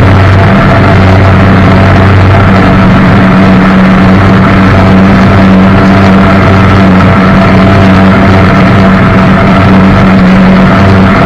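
Jet boat's engine running loud and steady under way, its pitch holding even, over a dense rush of water and spray.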